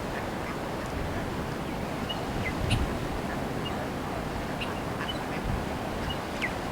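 Cape fur seals calling from their colony: short grunting, honking barks now and then over a steady background hiss.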